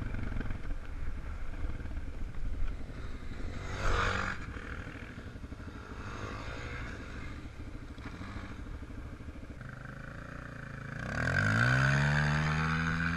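250 cc enduro dirt bike engines running, with a short noisy burst about four seconds in; near the end a bike revs up, its pitch rising and then holding.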